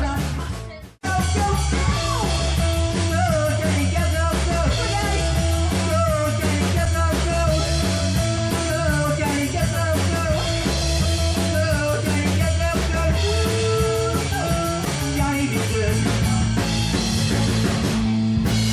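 Covers band playing rock music live, with drums, guitar and singing. The sound drops out sharply for a moment about a second in.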